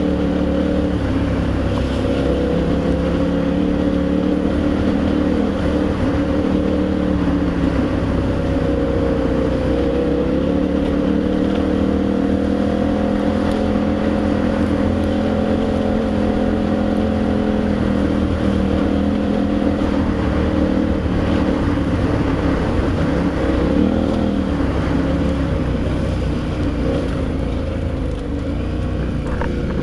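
KTM V-twin adventure motorcycle engine running under way at a fairly steady speed, its pitch rising and falling gently, over a constant rush of wind and road noise.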